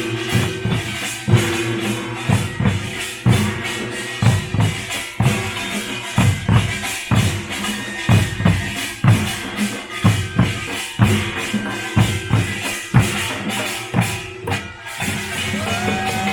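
Pungmul (Korean folk percussion band) playing: drums struck hard in a driving rhythm, about two strong beats a second, under a continuous metallic clatter.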